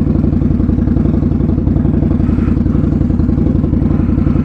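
Indian Scout Bobber Twenty V-twin running steadily with Vance & Hines slip-on exhausts, a fast, even pulse of firing strokes, heard through a microphone in the rider's helmet during a ride.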